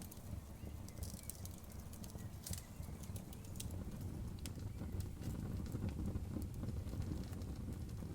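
Outdoor wood bonfire crackling: irregular sharp pops and snaps over a steady low rumble of the flames.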